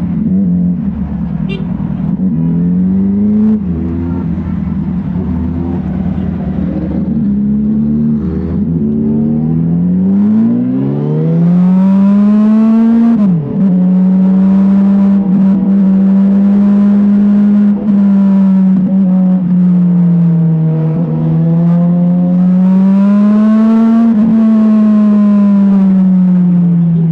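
Motorcycle engine running under way: the revs climb, drop sharply at a gear change about thirteen seconds in, then hold fairly steady with slow rises and dips. A low rumble runs underneath for the first ten seconds or so.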